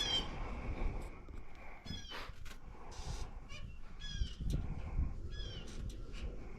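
Birds calling outdoors: a run of short, falling call notes repeated every second or so, with a few faint clicks and a brief hiss in between.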